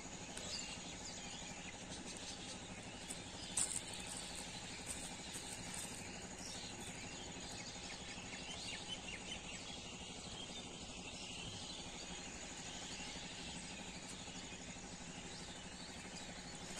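Faint outdoor rural ambience: a steady high insect drone over a soft background hiss, with a few faint clicks about three and a half seconds in.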